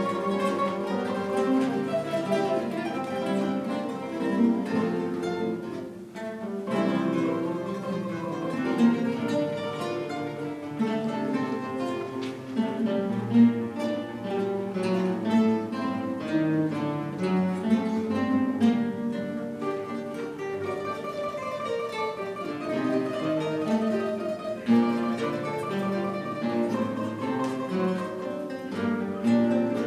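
Guitar ensemble playing together, many plucked guitars carrying melody and bass lines, with a brief drop in loudness about six seconds in.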